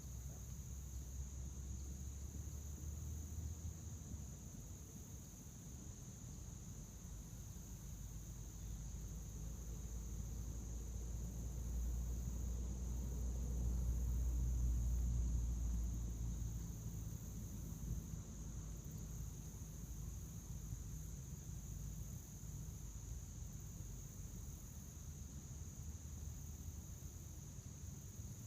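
Field crickets chirping in a steady, unbroken high chorus, over a low rumble that swells to its loudest about halfway through.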